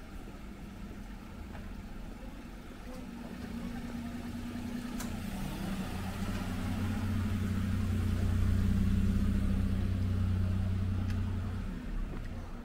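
Small car's engine idling with a steady low hum, growing louder as it is approached and then stopping abruptly near the end.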